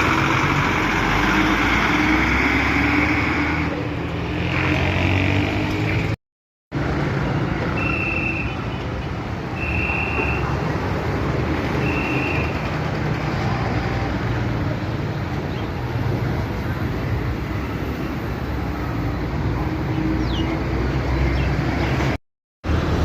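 Road traffic running past, a steady rumble and tyre noise of cars and heavier vehicles. Three short high beeps sound about two seconds apart around the middle, and the sound cuts out briefly twice.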